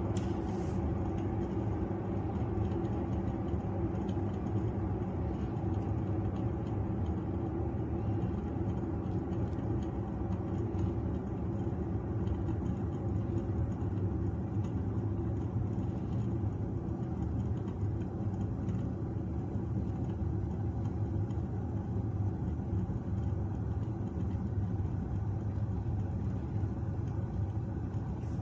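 Electric glass kettle heating water, a steady rumble that does not change.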